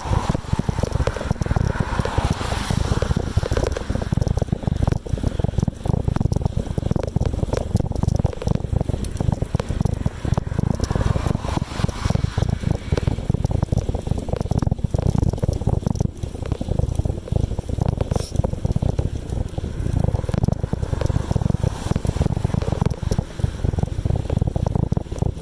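Wind buffeting the microphone of a camera on a moving bicycle: a loud low rumble that flutters rapidly in level.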